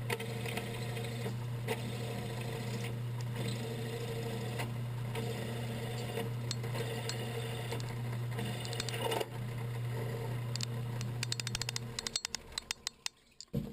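Metal lathe running with a steady hum while a boring cut is taken in an aluminum bracket, chips rattling. The motor cuts off about twelve seconds in, leaving a few light clicks.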